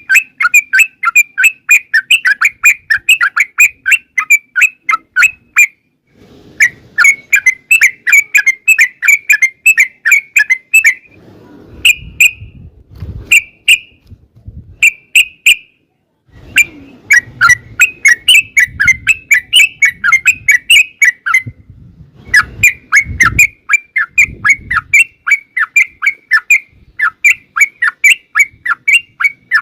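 Yellow-vented bulbul (trucukan) singing in long, fast rolling runs of sharp chattering notes. The runs come in several bouts, with a few separate notes in a short break near the middle.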